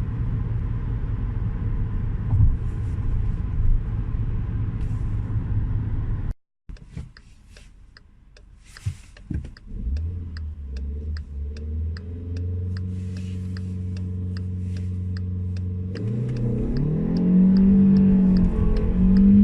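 Seat Toledo's 1.2 TSI four-cylinder turbo petrol engine and tyres running steadily at speed, with a dense steady road rumble, cut off abruptly about six seconds in. Then the engine runs quietly while a turn indicator ticks about two to three times a second. Near the end the engine revs up, its pitch rising as the car accelerates hard.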